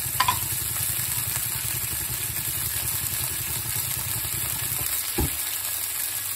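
Chilli-garlic paste with cumin and chillies sizzling in hot oil in a non-stick pan. A steady low rumble runs under it and stops about five seconds in, with a single knock there.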